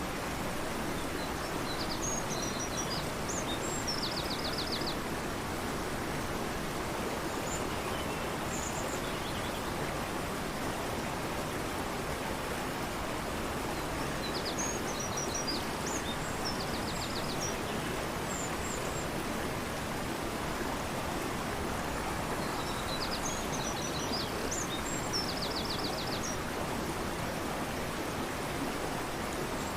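Fast-flowing river rushing steadily. A songbird sings the same short high phrase three times over it, each phrase ending in a quick dry trill.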